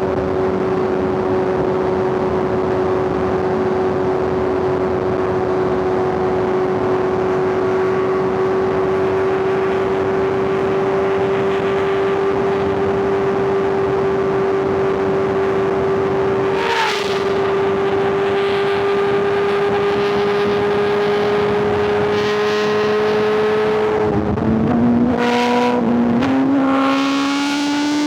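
Inline-four superbike engine running under way at a steady, slowly rising pitch, with a brief change about two-thirds of the way through. Near the end the pitch drops sharply, as on an upshift, and then climbs again in steps as the bike accelerates.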